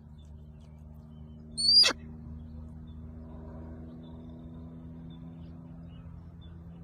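A single short, high-pitched animal call about two seconds in, over a steady low hum.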